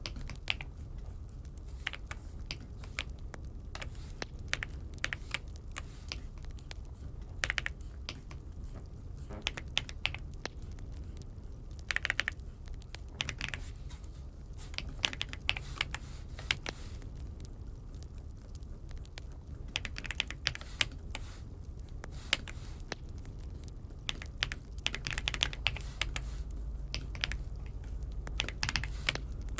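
Typing on an Aula F75 mechanical keyboard: irregular runs of key clicks with short pauses between them.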